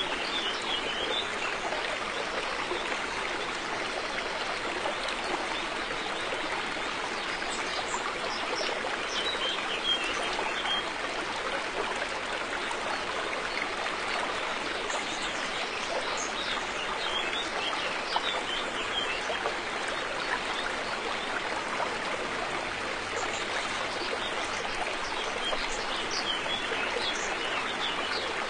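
River water flowing in a steady rush. A bird chirps faintly a few times, briefly each time.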